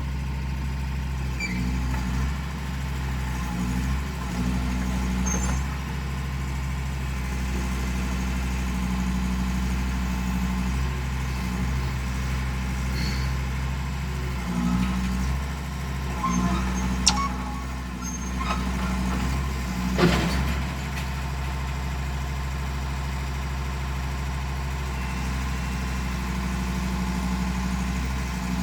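Excavator's diesel engine running steadily, its note stepping up and down again and again as it works. A sharp click comes about 17 seconds in, and a louder knock about 20 seconds in.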